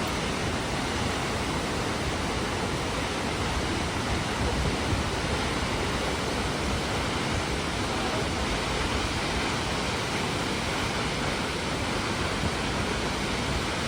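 Kegon Falls' waterfall rushing, a steady, unbroken roar of falling water.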